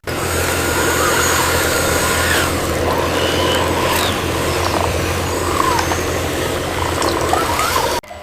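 A small motor running steadily with an even hum, with a few short high chirps over it. The sound cuts off suddenly near the end.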